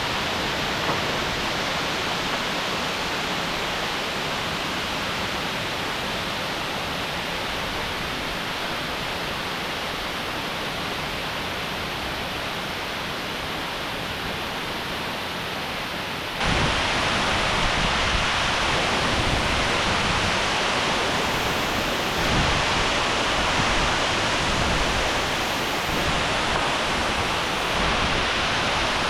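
Rushing water of a waterfall, a steady hiss without a break. About halfway through it suddenly becomes louder and deeper.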